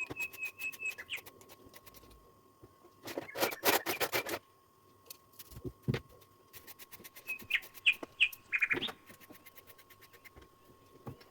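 A small bird chirping in short, quickly repeated high notes, twice. A quick run of sharp clicks and knocks comes about three seconds in.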